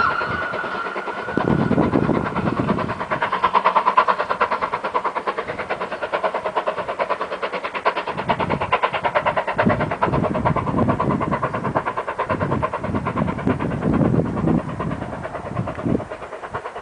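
Ivatt class 2 2-6-0 steam locomotive and its train working uphill, a fast even rhythmic beat of exhaust and running gear that fades near the end.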